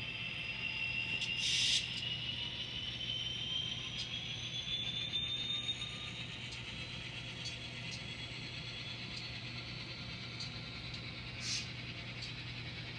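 N scale model locomotive's small electric motor whining, the whine rising slowly in pitch as the train picks up speed, over a steady low hum. Two short hissing bursts come about a second and a half in and near the end.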